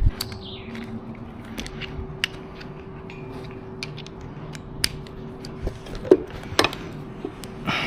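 Scattered light clicks and taps of small metal or plastic parts being handled and fitted, the sharpest a little after six seconds in, over a faint steady hum.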